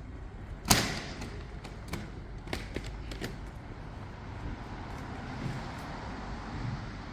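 City street ambience: a steady low rumble of traffic, broken by one loud sharp knock just under a second in and a few lighter clicks after it.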